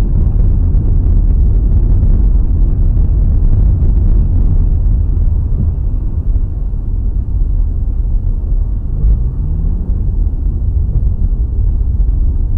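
Heavy, loud low rumble of a vehicle on the road as picked up by a dash cam, with a rising engine tone briefly about nine seconds in.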